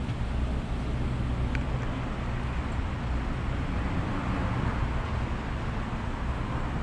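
A minivan's engine idling with a steady low rumble, the car stopped in a drive-thru queue.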